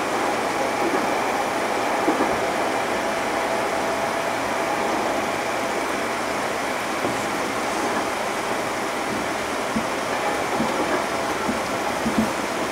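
Running sound of a JR Central 211 series 5000 electric multiple unit: steady wheel-on-rail noise with a faint steady whine, and a few sharp clicks of wheels over rail joints near the end.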